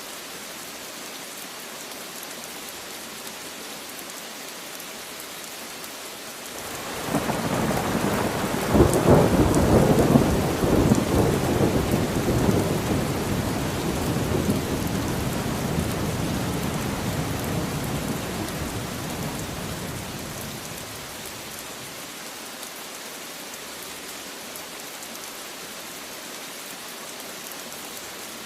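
Steady rain falling. About six seconds in, a roll of thunder starts suddenly, is loudest a few seconds later, then rumbles away slowly over about twelve seconds, leaving the rain alone again.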